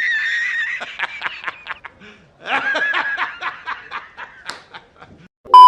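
High-pitched snickering laugh in two stretches, with a quick pulsing rhythm. Near the end a loud steady censor bleep cuts in.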